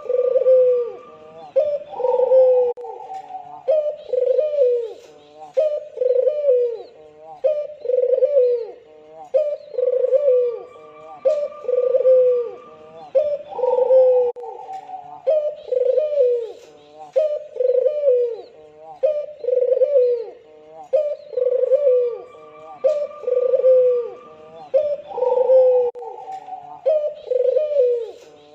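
Albino ringneck dove (puter) cooing over and over: a fast run of short coos, each dipping in pitch, in phrases that repeat about every eleven seconds, each phrase opening with a higher coo.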